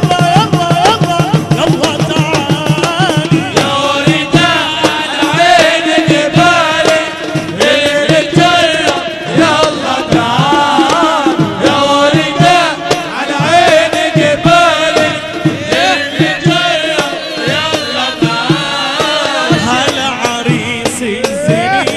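Arabic nasheed sung by a munshid, a wavering, ornamented melodic line over a steady drum beat.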